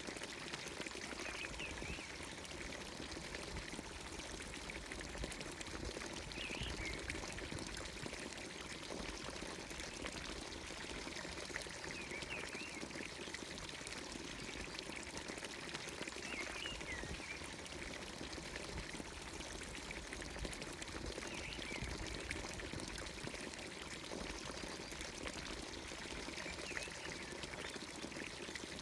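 Water pouring steadily from a village fountain's spout into its watering trough, with birds chirping briefly every few seconds over it.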